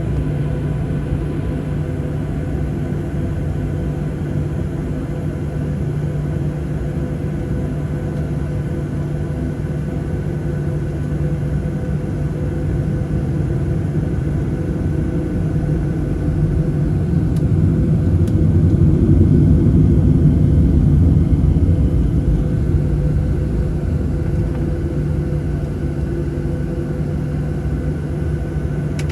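Boeing 737-700's CFM56 jet engines running steadily, heard as a low rumble with a steady hum, swelling a little in loudness about two-thirds of the way through.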